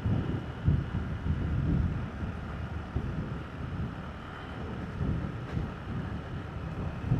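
Wind buffeting the microphone on a moving motorbike, over the low rumble of the ride. The buffeting comes in uneven gusts, strongest in the first two seconds and again near the end.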